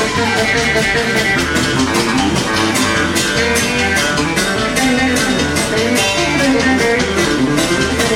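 Live country band playing an instrumental break: guitar lead over bass and a steady drum beat.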